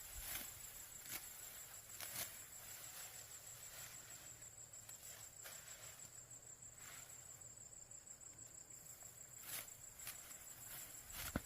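Faint, steady high-pitched insect trilling, with scattered soft rustles and knocks, the sharpest one near the end.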